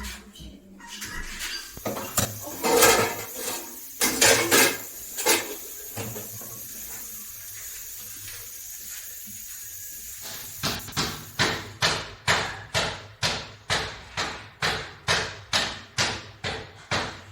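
A few scattered clattering knocks, then from about halfway on a steady run of sharp, even knocks at roughly two blows a second.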